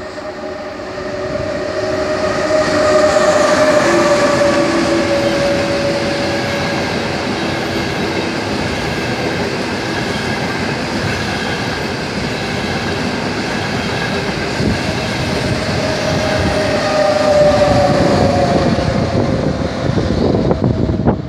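Trenitalia Frecciarossa 1000 high-speed electric train passing at speed: a loud, steady rush of wheels on rail and air. A whine falls in pitch as the front of the train goes by, and again near the end as its tail passes.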